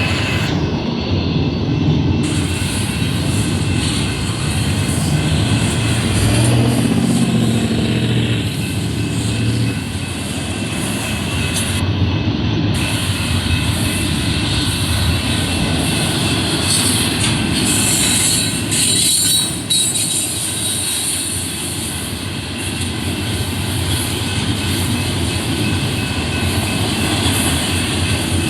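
Union Pacific intermodal freight train rolling past, a steady loud noise of steel wheels on the rails. About six seconds in, a low pitched hum stands out over the rolling noise for a few seconds, then fades.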